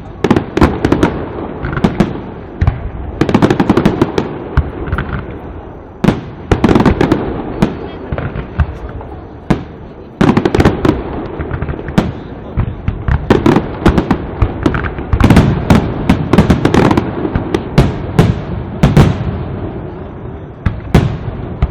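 Castillo aerial fireworks display: shells bursting in rapid succession, sharp bangs coming in surges every few seconds, each trailing off in a rumbling echo.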